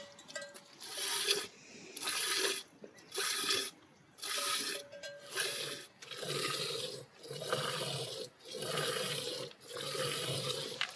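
Rhythmic rough rubbing or scraping strokes, about one a second, each lasting roughly half a second to a second with short gaps between.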